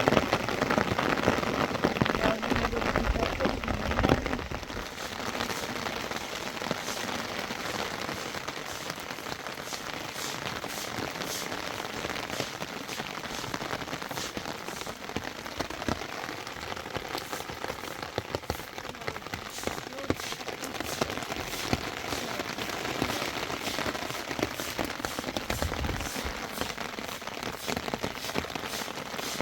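Rain falling steadily, with many separate drop hits heard on the surfaces around. It is heavier for the first four seconds or so, then settles to a steadier, lighter fall.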